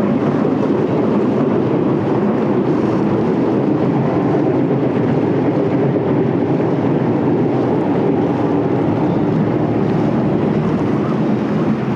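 Passenger cruise boat's engine running steadily, a constant low drone with wind rushing over the microphone.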